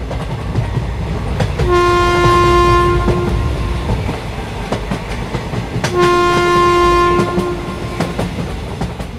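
Train running on rails with a steady low rumble and wheel clatter, while the locomotive's horn sounds two long blasts of about two seconds each, a couple of seconds apart.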